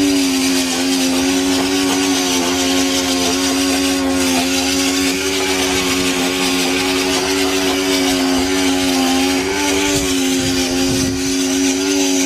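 Pressure washer running steadily: a constant motor hum under the hiss of the water spray, the pitch dipping slightly now and then as the load changes.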